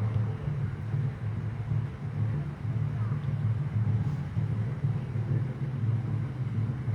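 Steady low rumble of background noise that holds without a break.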